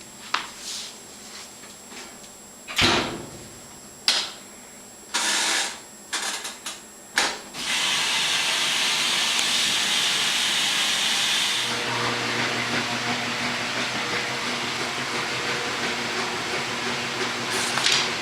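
A series of knocks and clicks as a laundry machine's door and controls are worked. The machine then starts with a strong hiss and settles into a steady running hum.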